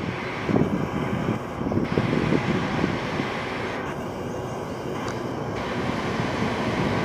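JR Freight EF510 electric locomotive and its freight train, a low, uneven rumble.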